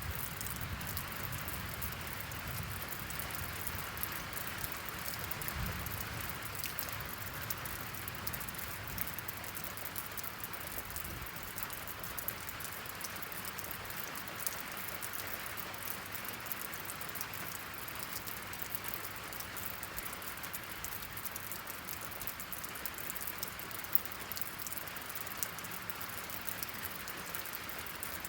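Steady rain falling: a dense, even hiss of drops with many sharp individual drop ticks. A faint low rumble sits under it in the first several seconds and then fades.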